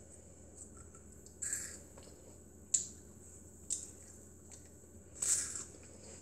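A child biting and chewing a crisp cheese sandwich cracker close to the microphone: a few separate crunches about a second apart, the last one longer, with quiet between them.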